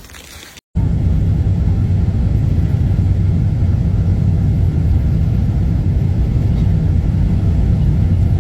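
A steady, loud low rumble that starts abruptly about a second in and holds evenly throughout.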